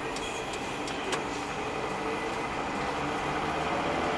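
Steady running noise of a car heard from inside the cabin: engine and road hum with a few faint clicks in the first second.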